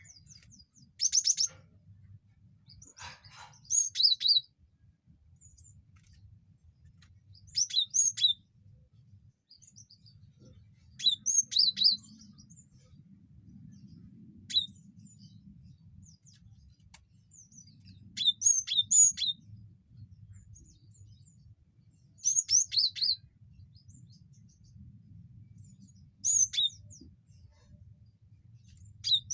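Cinereous tit (gelatik batu) calling: short phrases of rapid, high chirping notes, repeated roughly every three to four seconds, over a faint low hum.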